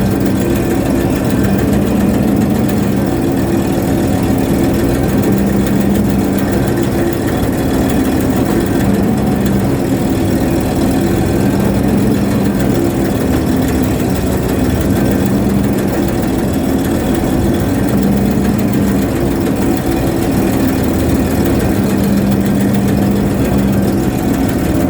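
Ship's engine running at a steady speed, a loud continuous drone with a low tone that swells and fades every few seconds.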